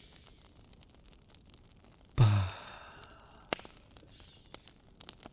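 A man's voiced sigh, a breath out about two seconds in, demonstrating the exhale of a breathing cue, over the faint crackle and pops of a fireplace.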